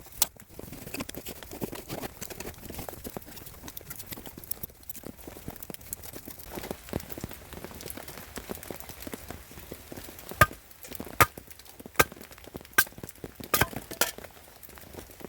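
Firewood being chopped: about half a dozen sharp strikes, roughly one a second, in the last third.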